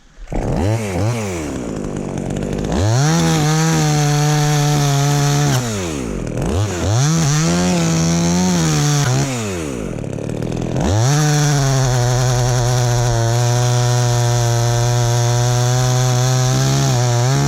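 Two-stroke chainsaw revved up and held at high speed in three long bursts, the longest near the end, dropping back toward idle between them, as it cuts into tamarind wood.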